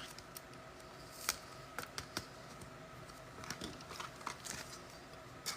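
Faint, irregular clicks and taps of trading cards being handled, slid and tapped together on a table as a pack is sorted.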